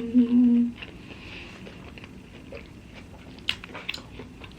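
A woman's brief held "mmm" of enjoyment at the start, then close-miked chewing of a toasted Philly cheesesteak sub, with a few sharp bite clicks about three and a half seconds in.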